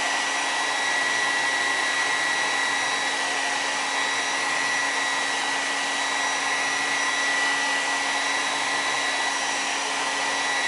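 Hair dryer running steadily: a constant rush of air with a steady high whine held at one pitch.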